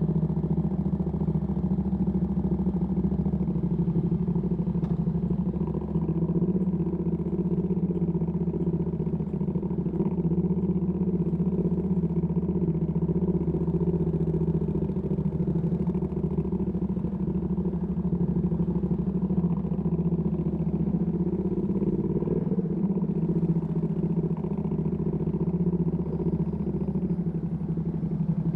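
Ducati Panigale V2S V-twin through a Termignoni exhaust, running steadily at low revs without revving.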